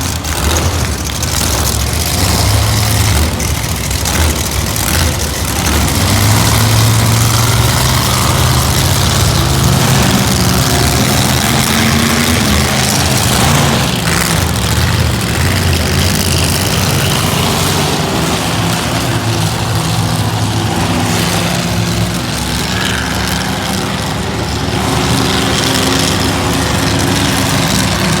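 Several monster truck engines running together after being started, a loud deep engine drone whose pitch shifts up and down as they are revved.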